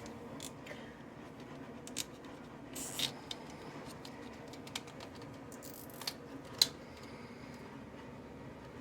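Scattered light clicks and scratches, a handful of sharp ticks loudest about three seconds in and again near seven seconds, over a steady low hum.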